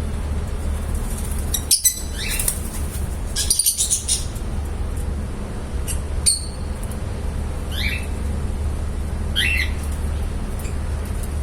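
Lovebirds giving short, high-pitched chirps, about five spaced a second or two apart, the first two as quick rattling runs, over a steady low hum.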